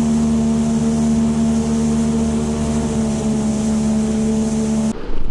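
A motor running at a steady pitch: a constant hum with a hiss above it, which cuts off abruptly near the end.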